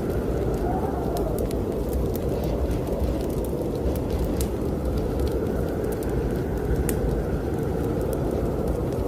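Strong snowstorm wind blowing steadily with a deep rumble, with scattered small crackles and pops from a wood fire in a fireplace.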